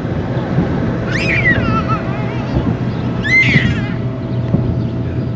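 Wind buffeting the microphone with a steady low rumble. Over it, two high-pitched, gliding squeals from a child at play, one about a second in and a shorter one about three seconds in.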